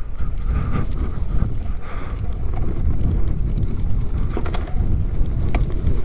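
Low wind rumble on the microphone as a dirt bike rolls down a steep, rough slope, with scattered sharp knocks and rattles from the bike over the ground.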